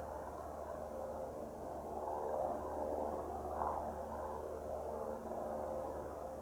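Cessna 172 Skyhawk's four-cylinder piston engine and propeller running steadily at low power, heard at a distance as the plane rolls out after landing.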